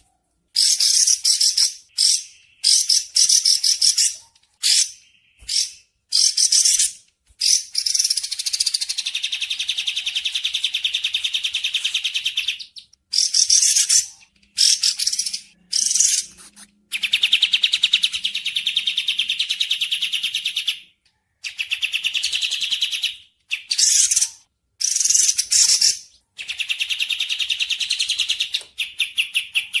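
Recorded bird song: repeated bursts of rapid, high-pitched trilling and chattering calls with short gaps between them, two of the trills held for about three to four seconds each.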